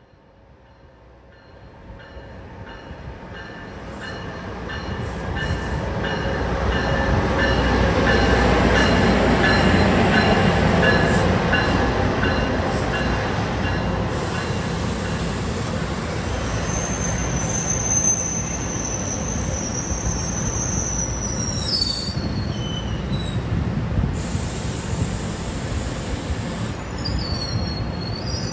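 A train approaching and running through, growing louder over the first several seconds into a steady rumble, with high-pitched wheel squeal from about halfway through that drops off, then more squealing near the end.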